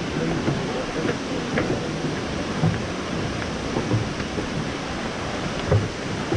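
Steady rushing of water from the Algar river and falls, an even roar with a few faint knocks mixed in.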